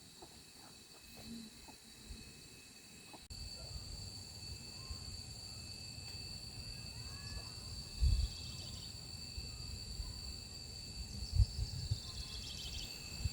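Outdoor rural ambience with steady high-pitched insect calls. A low rumble comes in about three seconds in, with two dull thumps later on and a few faint chirps.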